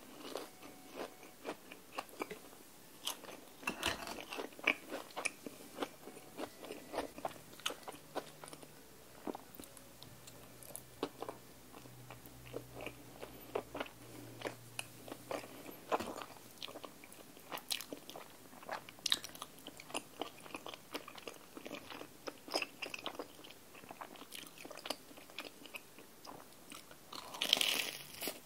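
Close-miked eating sounds: chewing and crunching on a fried Korean cheese corn dog and chewy rice cakes, with many small crisp mouth clicks. A louder crunchy bite into the corn dog comes near the end.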